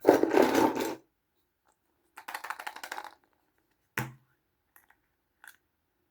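Toy packaging crinkled and rustled by hand, in two bursts, the first loudest. Then a single sharp click and two small ticks as a small toy piece is handled.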